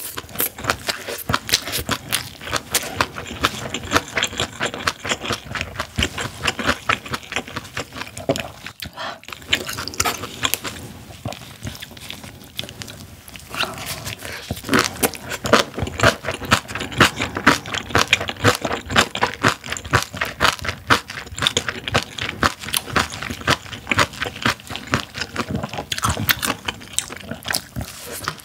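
Close-miked chewing of spicy napa cabbage kimchi and steamed white rice: rapid wet crunches and mouth smacks, getting louder and denser about halfway through.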